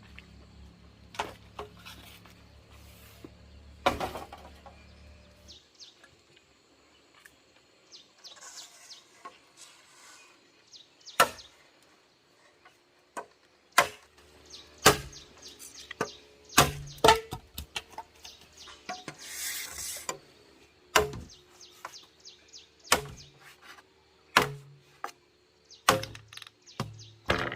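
Irregular sharp knocks and clatters, well over a dozen spread through the stretch, with faint bird chirps behind; a low hum stops about five seconds in.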